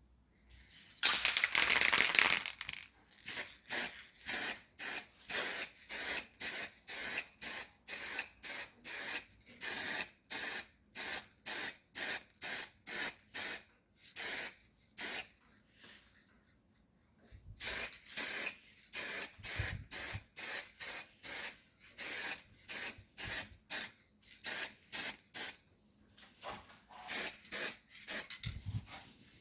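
A sprayer hissing: one long spray about a second in, then a long series of short spray bursts at about two a second, broken by two brief pauses.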